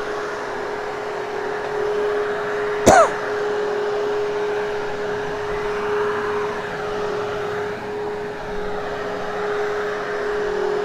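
Hoover Hushtone upright vacuum cleaner running steadily with a constant hum as it is pushed over a thick, hairy carpet. A brief sharp knock with a short falling squeak comes about three seconds in.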